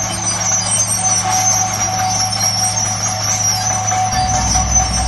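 Diesel engine of heavy earthmoving machinery running steadily with a high whine over it. About four seconds in the engine note deepens into a heavier rumble, as if it is taking load.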